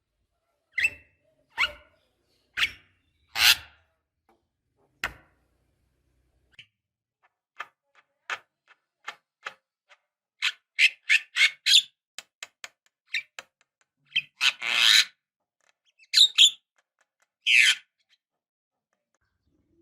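Javan myna (jalak kebo) calling: short, sharp calls about a second apart, then a run of quick clicking notes in the middle, and several longer, louder calls near the end.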